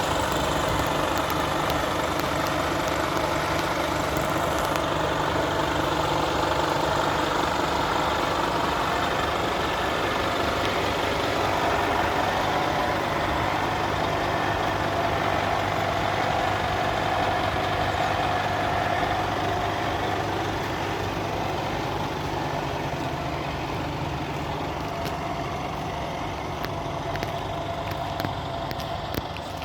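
Scania P320 crane truck's diesel engine idling steadily, with a higher whine joining in partway through before it eases off slightly.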